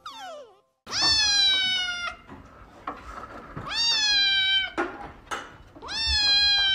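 A grey-and-white kitten meowing loudly three times. Each meow is long, a little over a second, and sags slightly in pitch toward its end, with a pause of over a second between meows.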